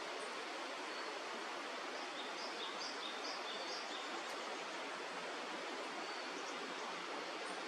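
Steady rush of flowing river water, with a few faint, short, high bird chirps about two to four seconds in.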